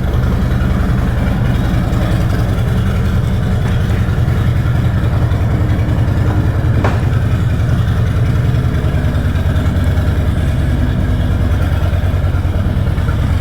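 Harley-Davidson Street Bob's V-twin idling steadily through a loud, catless Two Brothers 2-into-1 exhaust.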